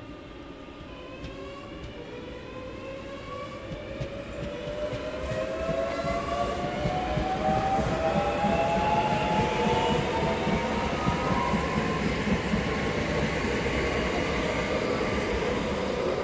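Class 365 electric multiple unit pulling away and accelerating, its traction motors giving a whine of several tones that climbs steadily in pitch as it gathers speed, over a growing rumble of wheels on rail. The sound builds in loudness and levels off near its peak for the last few seconds. To the trainspotter these units don't sound too healthy.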